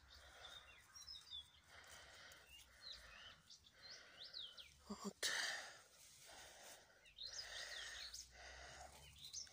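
Faint outdoor garden ambience: several short bird chirps scattered through, over soft rustling that comes and goes about once a second.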